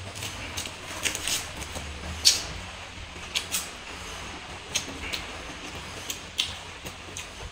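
Mouth-eating sounds while chewing fried instant noodles: sharp, wet lip smacks and mouth clicks at irregular intervals, about one a second, over a faint low hum.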